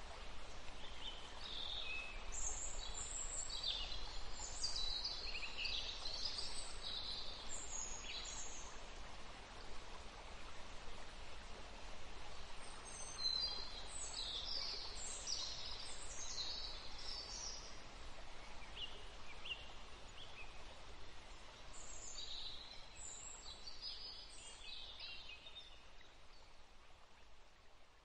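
Birds chirping and calling in three spells of short, high notes over a soft steady outdoor hiss, the whole fading out near the end.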